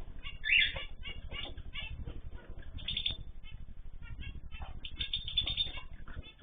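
Ornamental cage birds chirping and calling, many short, high calls overlapping, over a steady low rumble.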